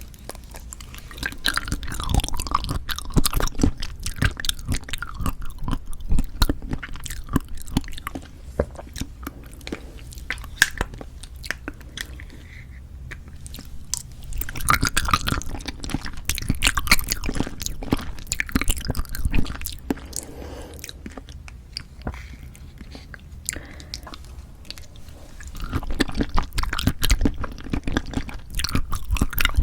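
Close-miked chewing of cheonhyehyang citrus cup jelly: quick mouth clicks and chews in three louder stretches, with quieter chewing between.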